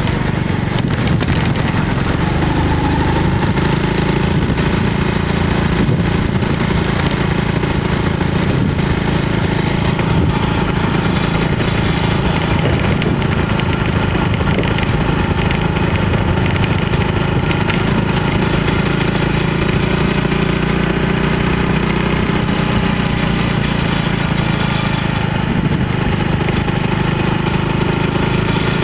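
Aveta Ranger 110 motorcycle's small 110 cc engine running steadily while being ridden along the road.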